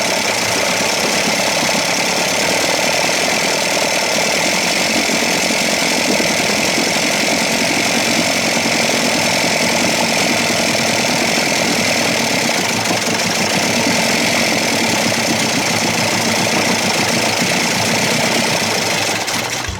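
1956 Evinrude 7.5 hp two-stroke twin outboard motor running steadily in gear, then cutting off at the very end.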